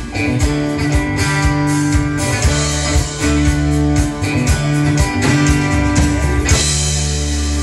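Live band playing an instrumental break with electric guitar, bass and drum kit. Near the end the drums stop and a chord is held.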